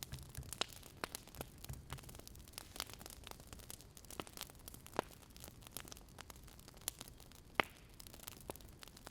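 Wood fire crackling: irregular sharp pops and snaps over a soft hiss, the loudest pop about seven and a half seconds in.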